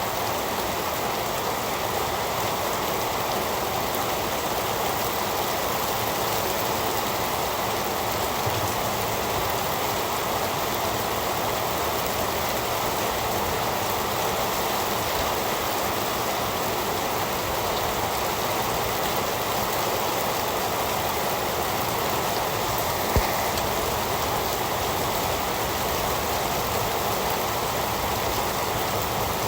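Heavy rain falling steadily, an even hiss of drops, with one short sharp tap a little over three-quarters of the way through.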